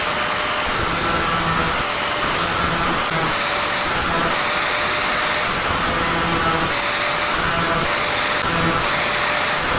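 Electric grinder running steadily while sharpening the teeth of a handsaw, its tone shifting in short spells about every half second to a second.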